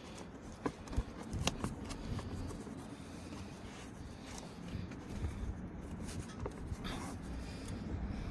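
Plastic handling sounds as a DEF jug's pour nozzle and hose are fitted: scattered clicks and rubbing, the sharpest clicks about a second in, over a low steady rumble.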